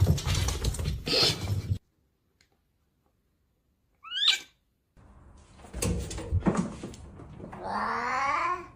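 Cat meows: a brief call about four seconds in and a longer meow rising in pitch near the end, among knocks and handling noises.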